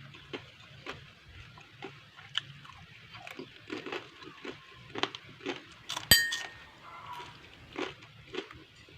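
Close-up eating of crunchy fried snacks (gorengan): irregular bites, crunching and chewing. About six seconds in comes one sharp, ringing clink of dishware, the loudest sound.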